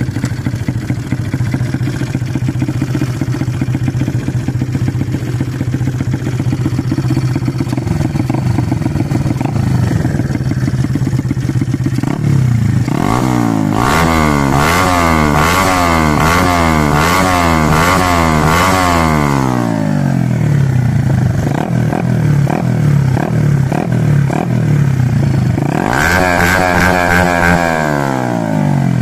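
Minimoto Type Z 110cc single-cylinder four-stroke Cub engine with a Mikuni VM22 carburettor, running loud through an open titanium exhaust with its silencer insert removed. Warmed up, it idles steadily, then takes a run of quick throttle blips for several seconds, settles back to idle, and is blipped once more near the end.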